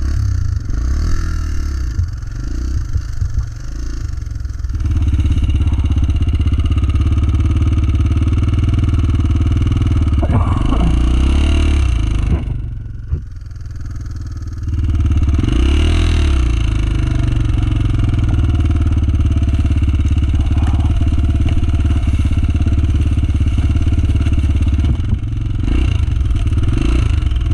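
Dirt bike engine running under throttle as the bike is ridden along a trail. About halfway through the throttle is shut off for a couple of seconds, then the engine picks up again.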